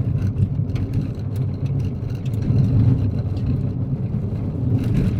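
Kia Picanto driving on a gravel road: a steady low rumble of tyres and engine, with faint scattered ticks of loose gravel.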